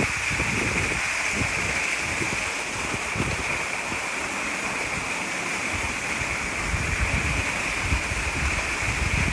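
Waterfall rushing steadily, with a few faint low knocks of the water now and then.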